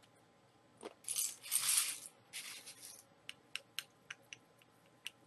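Two loud stretches of rustling hiss from the bowl of corn flakes, then a spoon tapping the cereal flakes: about a dozen sharp, separate clicks.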